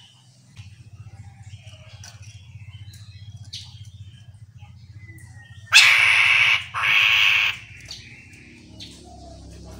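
Chestnut-capped laughingthrush calling: scattered faint short chirps, then two loud, harsh, rasping calls of just under a second each, about six and seven seconds in, over a steady low hum.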